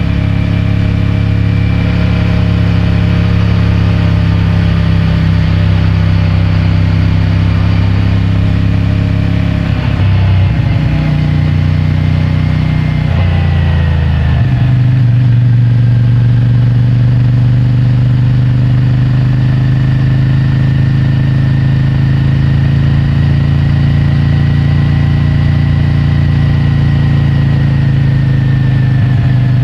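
CFMOTO 450MT's parallel-twin engine through its stock exhaust, under way at a steady pace, heard via a microphone in the rider's pocket. Its note shifts and changes pitch between about ten and fourteen seconds in, then settles into a steady drone.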